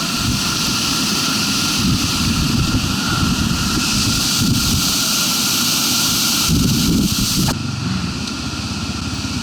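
Zuum NC300 enduro motorcycle's single-cylinder engine running unevenly over rough ground, with wind rushing over the microphone. About seven and a half seconds in, the hiss drops away and the engine settles into a steady low note.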